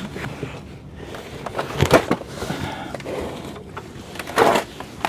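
Handling noise of work under a car: scattered light knocks and scrapes, with a sharper knock about two seconds in and a short rushing scrape near the end.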